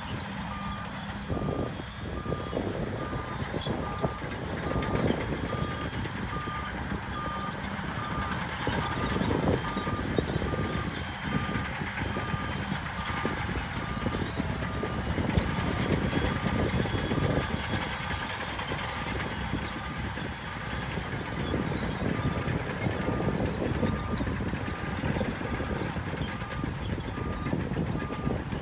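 A heavy construction machine's reversing alarm beeping steadily, about two beeps a second, over the loud running of diesel machinery with irregular surges of engine and working noise.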